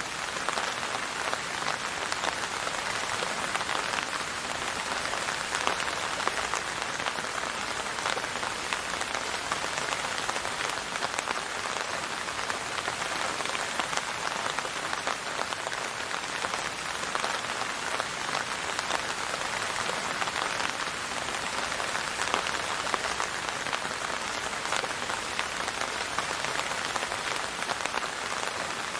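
Steady rain falling on a surface: a dense, even patter of drops with no thunder or music.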